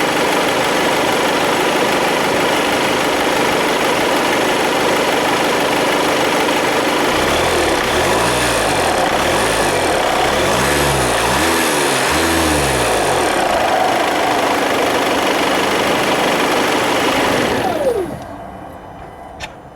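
Volkswagen Passat B8's 2.0 TDI 150 hp four-cylinder diesel idling, then revved up and let fall back a few times in quick succession before settling back to idle. Near the end the engine sound winds down and falls away sharply.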